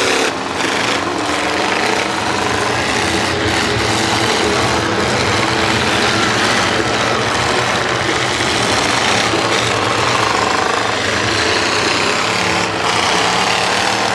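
Several demolition derby cars' engines running hard together, a loud, rough, steady din through short exhaust stacks standing up out of their hoods.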